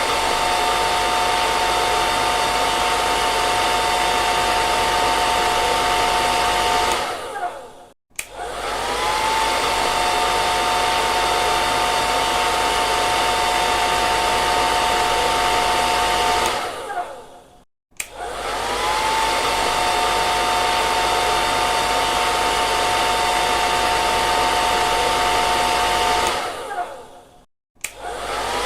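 Hair dryer blowing with a steady whine. Three times it switches off, winds down to a moment of silence, and starts again, its motor whine rising back to speed.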